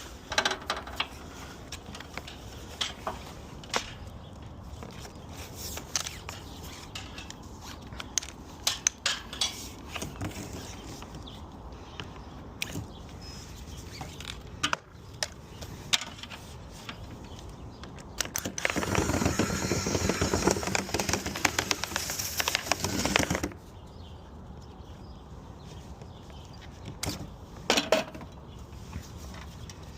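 Dryer vent cleaning rods and brush clattering and scraping in a blocked dryer vent pipe, with scattered knocks and clicks. About two-thirds of the way in, a loud steady whooshing noise runs for about four to five seconds, then stops abruptly.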